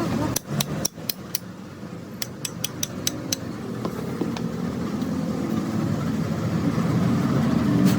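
A run of about ten sharp clicks in the first three and a half seconds, about three or four a second, over a steady low rumble that grows louder toward the end.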